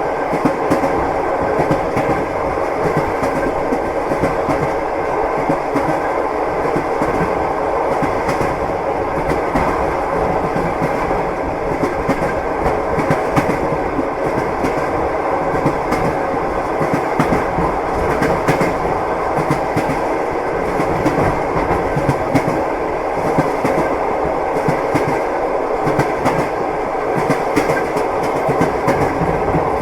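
Passenger train running steadily, its wheels clacking over the rail joints over a constant rumble.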